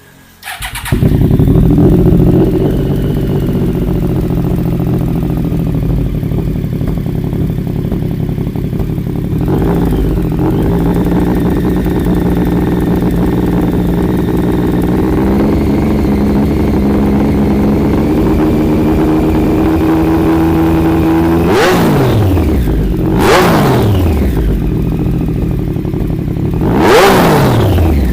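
Triumph Street Triple 765's three-cylinder engine through an aftermarket Barrel Exhaust, starting up about a second in and idling steadily. Near the end it is given a few sharp throttle blips, each rev rising quickly and falling back to idle.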